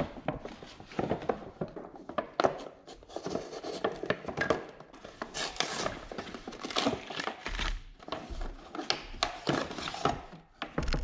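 Hand work on a truck door's inner workings: scattered clicks, light knocks and rustling as the door parts and latch pieces are handled.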